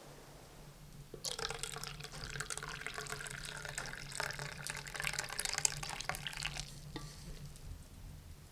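Water pouring steadily for about five seconds, starting about a second in and stopping abruptly.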